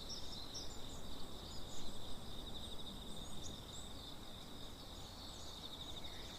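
Forest ambience: a steady high insect trill, pulsing quickly, with scattered short high chirps over a low, even background hiss.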